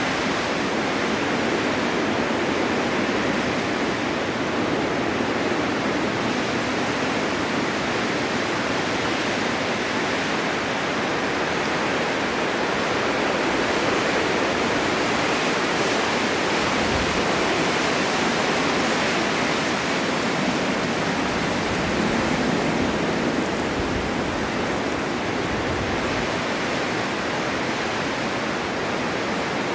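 Snowstorm wind blowing steadily, an even rush of noise that swells slightly now and then.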